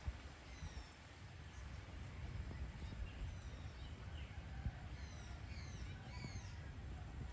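Small birds chirping: a scatter of short, quickly sliding calls that grow busier about five to six seconds in, over a low steady rumble of outdoor background noise.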